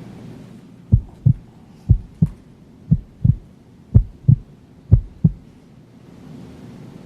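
Heartbeat sound effect: five low double thumps, lub-dub, about one beat a second.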